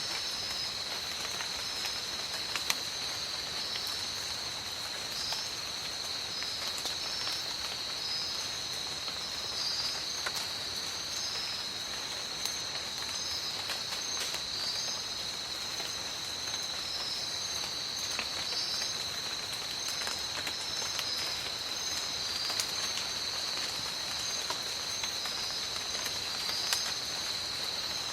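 Steady tropical rain falling, with scattered louder drops. Through it runs a continuous high-pitched drone and repeating high chirps from rainforest animals.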